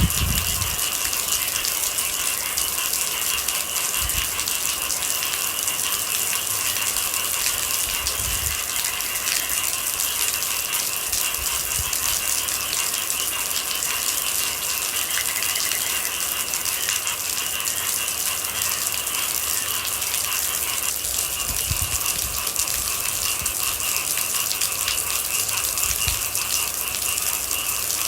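Steady rain falling, with a constant high-pitched chorus of night animals above it and a few soft low thumps now and then.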